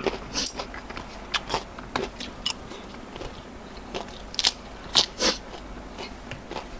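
Close-up crunching and biting of crispy deep-fried fish pieces, fried hard enough to be eaten bones and all, and fresh raw vegetables: irregular crisp crunches, loudest about four to five seconds in.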